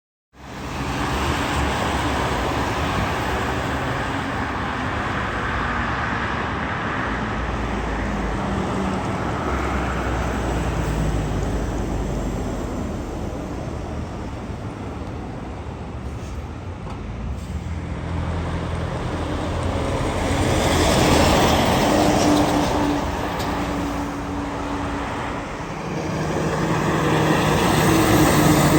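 Road traffic with heavy trucks and cars passing. Their engines drone continuously and swell louder twice as vehicles go by in the latter part.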